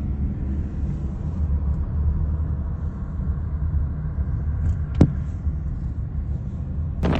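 Steady low rumble, with one sharp click about five seconds in.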